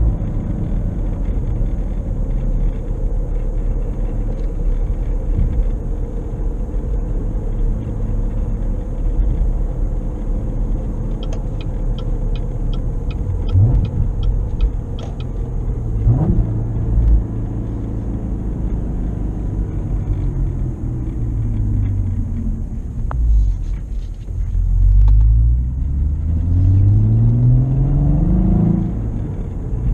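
2016 Cadillac ATS-V's twin-turbo V6 through a drive: the engine slows at first, runs steadily, gives short sharp rev blips around the middle and climbs in pitch under acceleration near the end. A run of regular ticks, about three a second, lasts a few seconds near the middle.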